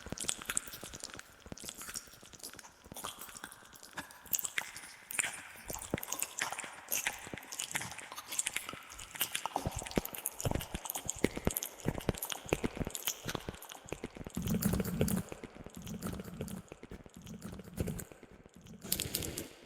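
ASMR mouth sounds close to the microphone: a dense run of wet clicks, smacks and tongue pops, with the echo effect the video is built around. A few short low voiced sounds come about three-quarters of the way through.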